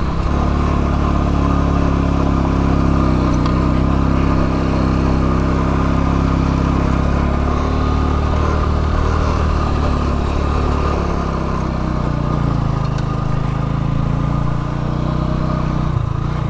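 Motorcycle engine running steadily while riding off-road, its pitch easing off a little around the middle and picking up again.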